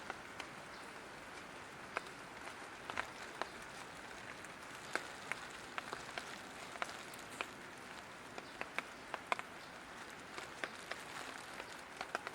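Light rain falling steadily, with single drops ticking at irregular moments over the hiss.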